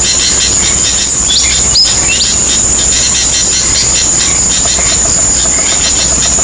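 Loud steady outdoor insect chorus: a constant high whine with a fast, even pulsing under it. A few short bird calls sound about one to two seconds in.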